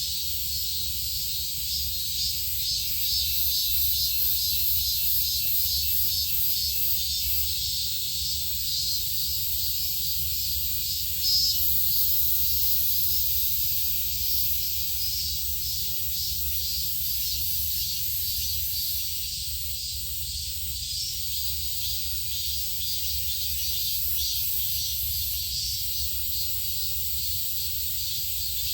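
Insect chorus, a steady high-pitched buzzing with a fine fast pulse, over a low rumble. A brief louder sound about eleven seconds in.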